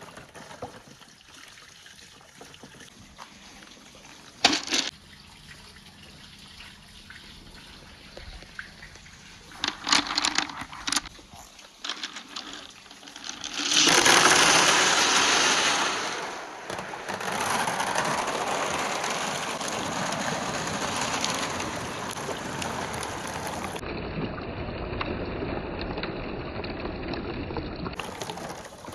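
A few sharp clicks, then about halfway through a loud gush of water rushing down a marble run of rain gutters and PVC pipe, settling into steady running water.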